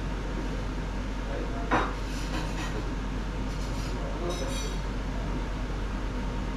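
Dishes and cutlery clinking at a meal: one sharp knock about 1.7 seconds in, then a few bright ringing clinks, over a steady low background hum.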